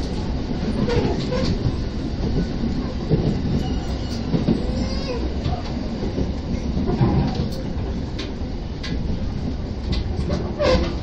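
Electric commuter train running, heard from inside the passenger car: a steady rumble of wheels and running gear with scattered clacks from the wheels. The train is coming in alongside a station platform.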